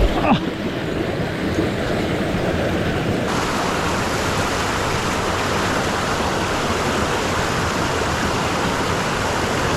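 Mountain stream water rushing with a steady, even sound, turning brighter about three seconds in.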